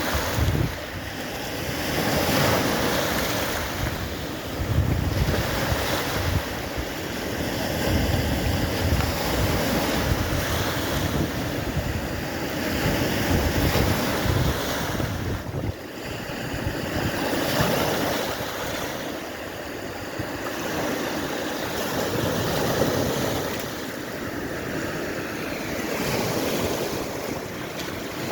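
Baltic Sea waves washing in, the surf swelling and easing every few seconds, with wind buffeting the microphone.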